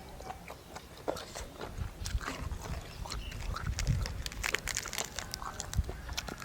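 A person chewing a mouthful of spicy seafood salad close to the microphone: irregular wet clicks, smacks and soft bites.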